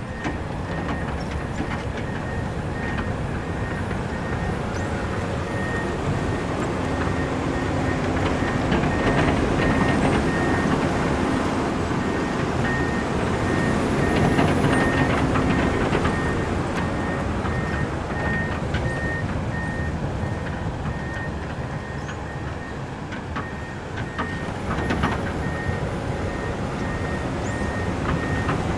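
Komatsu excavator's diesel engine running under working load, growing louder in the middle stretch. Its warning alarm beeps fast and regularly at a high pitch, stopping for several seconds midway and then resuming.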